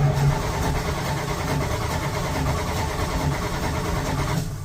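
1985 Dodge D150 pickup's starter cranking the engine for about four and a half seconds without it catching, then trailing off: a hard cold start that the owner puts down to the engine being cold-blooded and flooded.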